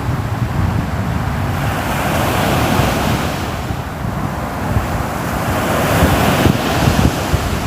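Sea surf washing onto the shore, the noise of the waves swelling and easing twice, with wind buffeting the microphone as a steady low rumble underneath.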